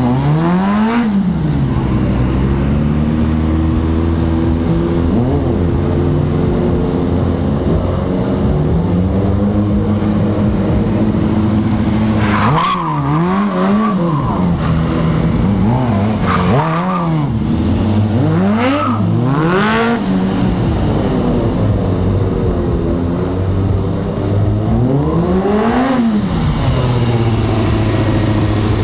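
Car engines revving again and again, the pitch climbing and falling, with sharper, higher revs about halfway through and again near the end.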